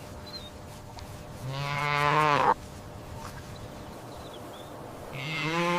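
Two drawn-out livestock calls, each a little over a second long, held at one pitch and dropping at the end.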